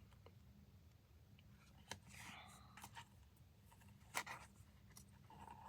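Near silence, with a few faint handling clicks and soft rustles.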